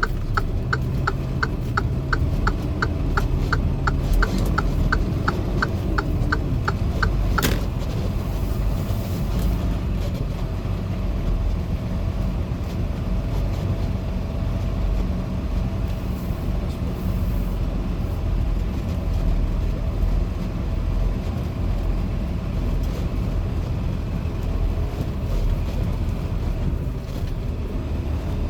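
Truck engine running steadily, heard from inside the cab. A turn signal ticks about three times a second over the first seven seconds, then stops with a single click.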